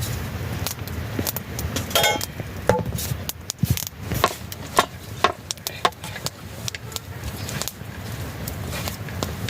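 Irregular clinks and knocks of kitchen utensils and cookware being handled, over a steady low background noise, with one short ringing clink about two seconds in.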